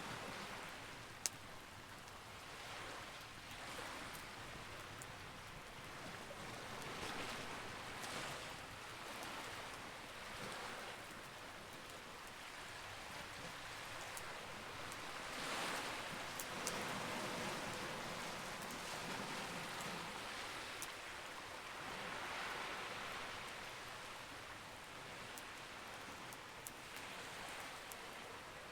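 Campfire burning: a steady crackling hiss that swells and eases, with a few sharp pops of the burning wood.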